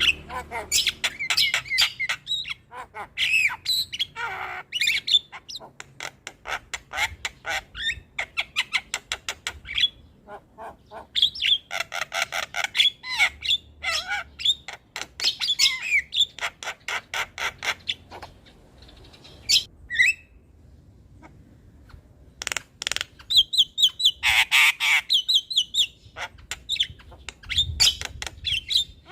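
Javan myna singing: long runs of rapid chattering clicks and harsh squawks, mixed with a few high whistled notes, with a brief lull about two-thirds of the way through.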